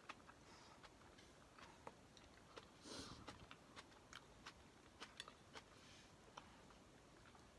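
Faint close-up chewing of kimchi and pancake: soft wet mouth clicks scattered through, with a slightly louder bite about three seconds in.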